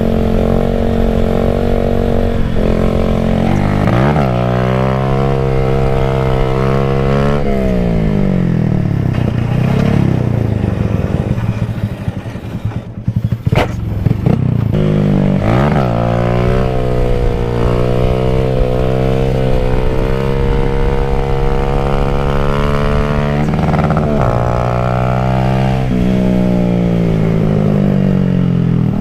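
Honda CB250 Twister's single-cylinder four-stroke engine under hard throttle during wheelies: the revs climb, step down at each gear change, and fall back when the throttle is closed, several times over. About halfway through the engine drops nearly to nothing with a sharp click, then picks up and climbs again.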